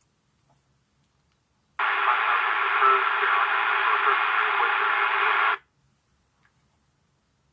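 A burst of radio static, about four seconds of loud hiss that switches on abruptly and cuts off just as suddenly, like a scanner's squelch opening on an air-traffic-control channel.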